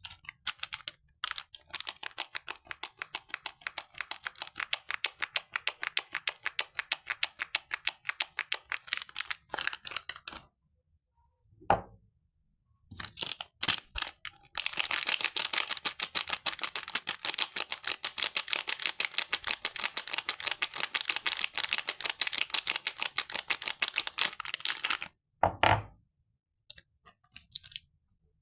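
Crisp, rapid crackling from soap being worked close to the microphone, in two long runs of dense clicks. The first runs from about two to ten seconds in and the second from about fourteen to twenty-five seconds, with a few single clicks between them.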